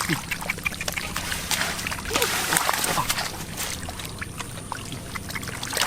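Splashing and sloshing in shallow muddy water as fish are grabbed by hand, with scattered small splashes and a busier stretch of splashing about two seconds in.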